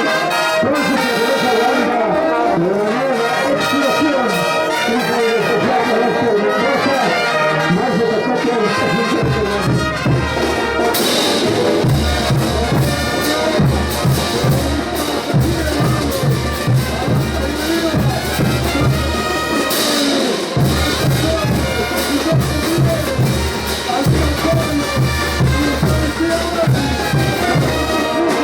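Bolivian brass band (banda) playing a ch'uta dance tune, with trumpets and trombones carrying the melody. A steady beat of heavy percussion comes in about nine seconds in and continues under the brass.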